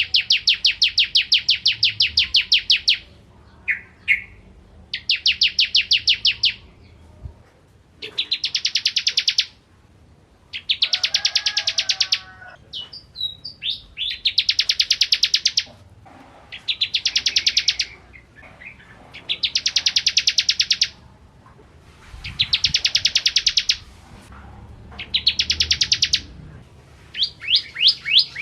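Bar-winged prinia (ciblek kristal) singing: repeated bursts of rapid, evenly spaced high chips, each trill one to three seconds long, about ten of them with short pauses between.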